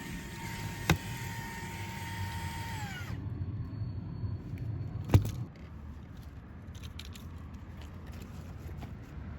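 Fanttik V8 Apex cordless handheld vacuum running with a steady whine, then switched off about three seconds in, its motor winding down in pitch as it stops. A sharp click follows about five seconds in.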